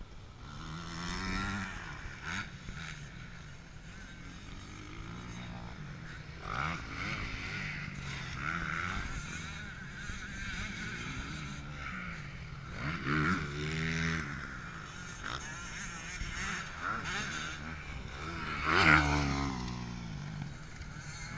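Motocross bikes riding the circuit, their engines revving up and falling off again and again as they pass; the loudest pass comes near the end.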